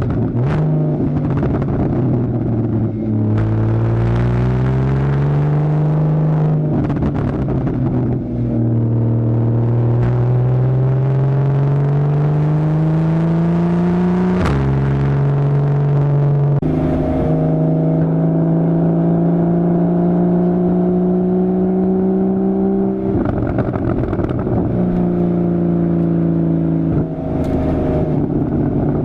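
2015 Porsche Boxster's 2.7-litre flat-six through a Fabspeed Maxflo aftermarket exhaust, pulling hard under acceleration. The pitch climbs steadily and drops suddenly at each PDK upshift, about three seconds in and again about halfway, then holds a steadier, slowly rising note.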